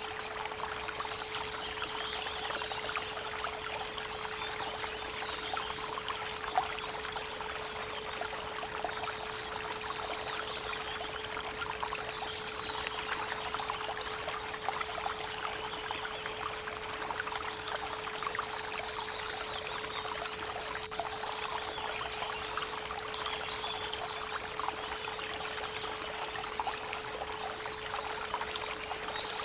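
A steady 432 Hz pure tone hums under a running creek, with songbirds chirping and trilling above it several times.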